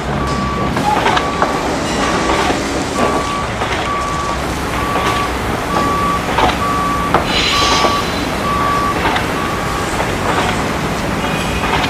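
An electronic beeper sounding a single steady tone in short even beeps, roughly once a second, over a constant hum of street or traffic noise.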